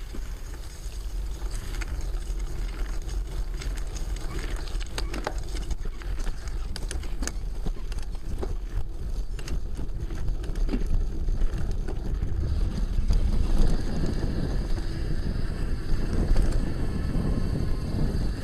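Mountain bike being ridden along a trail: wind buffeting the microphone over steady tyre noise, with frequent sharp clicks and rattles from the bike over rough ground, busiest in the first half, and the rumble growing louder towards the end.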